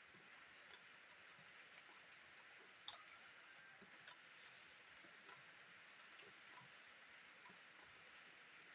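Faint steady rain, an even hiss with scattered drops ticking, one sharper drop about three seconds in.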